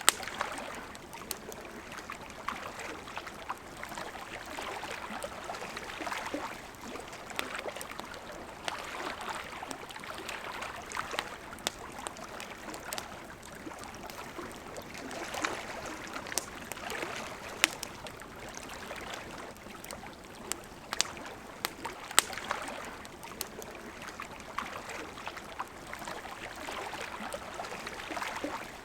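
Campfire crackling and popping with irregular sharp snaps, over the steady rush and gurgle of a flowing river.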